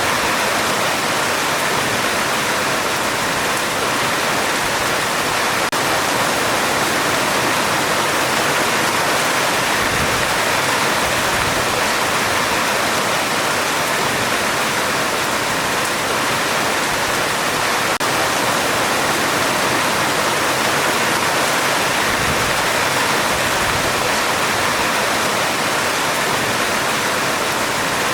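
Heavy rain falling steadily on a metal roof: a dense, even hiss with no break or change.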